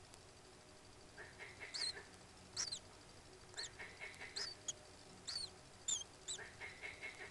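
Birds calling: a series of short, high chirps that bend in pitch, mixed with hoarser, lower calls in small clusters, heard faintly over steady background hiss.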